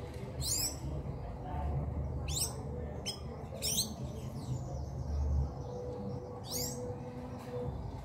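A bird gives five short, high calls, each sweeping sharply downward in pitch, over a low background rumble.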